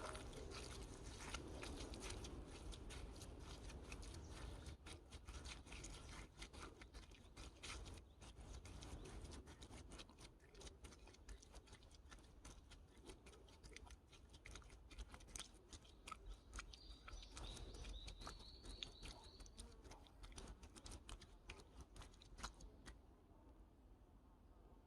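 Bare feet stepping through soft forest mud: faint wet squelching with many small clicks and crackles. A brief high bird call comes about two-thirds of the way through.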